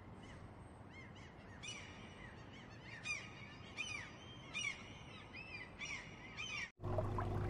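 An animal calling in a series of short, high, arched calls, one or two a second, faint at first and louder from about two seconds in, over a faint hiss. Near the end the sound cuts off abruptly and gives way to a steady low hum.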